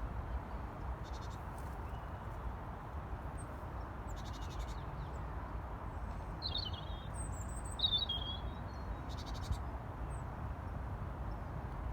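A few short, high bird calls about six to eight seconds in, over a steady low outdoor rumble.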